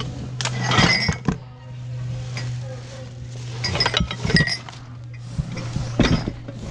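Metal saucepans clinking and clanking against each other as they are handled and rummaged through, in three clusters of knocks.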